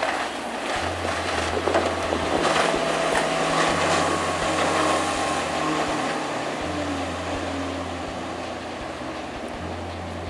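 Tritoon boat running fast on the water behind its Yamaha F350 5.3-litre V8 outboard: engine, wind and water rush, swelling a couple of seconds in and easing toward the end.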